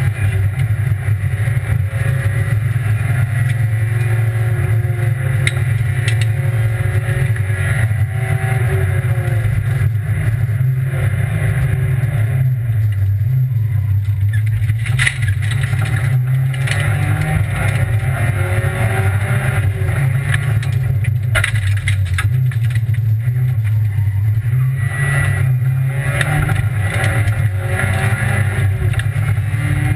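Rally car's engine running hard under load, heard inside the stripped cabin, its pitch wavering up and down with throttle and gear changes. A few sharp knocks come through about halfway.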